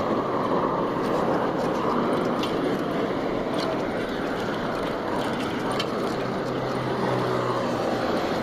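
Steady road traffic noise with vehicles passing, with a low engine hum coming up for a second or two near the end.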